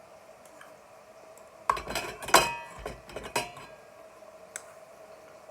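A metal spoon clinking and scraping against cookware in a quick cluster of ringing knocks, loudest about halfway through, as a teaspoon of cumin seeds goes in. A faint steady hum runs underneath.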